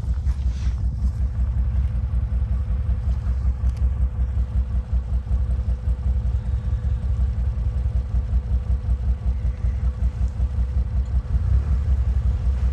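ATV engine running with a steady low rumble whose loudness rises and falls unevenly, as a quad is worked through deep mud.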